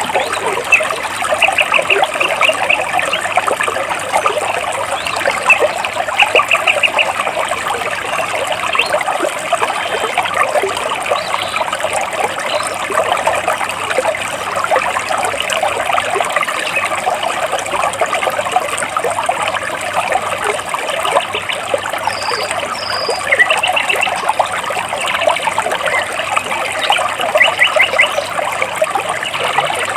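Stream water running steadily between large rocks, with birds chirping over it: short rapid trills about a second in, around six seconds in, and twice in the last quarter, plus two brief high notes shortly before.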